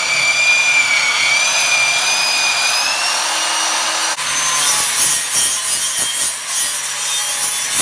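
Angle grinder working steel exhaust tubing: a high whine over a loud rasp, the whine sagging a little under load. About four seconds in it turns into a rougher, harsher rasp with a low hum underneath.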